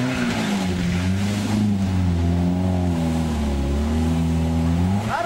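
Off-road 4x4's engine labouring as it churns through deep muddy water, the revs rising and falling.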